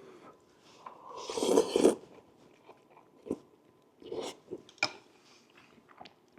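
A person eating ramen: a long noisy slurp of noodles about a second in, then chewing with a few short wet smacks and clicks.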